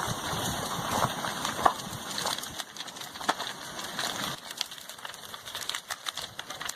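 Crackling and popping from a wooden house burning as lava overruns it: many short sharp snaps over a steady hiss, the hiss growing thinner past the middle.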